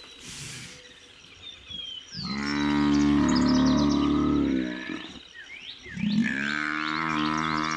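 Wounded African buffalo bull bellowing in distress as lions attack it: two long, drawn-out bellows, the first starting about two seconds in and the second about six seconds in.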